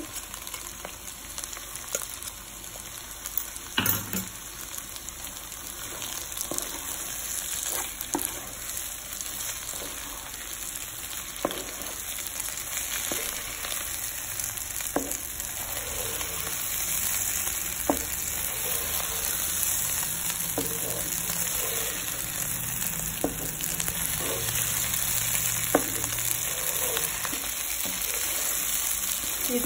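Sliced tindora (ivy gourd) and onions sizzling as they fry in a nonstick pan, with a spatula stirring through them and now and then knocking against the pan; the loudest knock comes about four seconds in.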